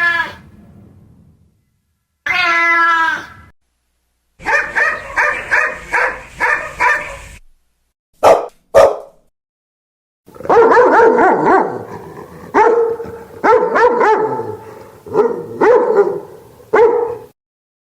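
Dogs barking in a string of separate short recordings: a run of repeated barks, two sharp single barks, then a longer bout of steady barking. A brief drawn-out call comes a couple of seconds in.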